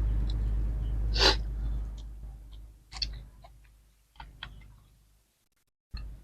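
Eating noises: a short, sharp breath-like hiss about a second in, the loudest sound, then a few faint clicks and smacks, over a low rumble that fades away during the first two seconds. The sound cuts out briefly near the end.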